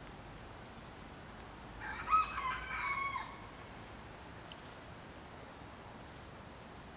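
A single drawn-out animal call, about a second and a half long, starting about two seconds in, over faint steady background noise.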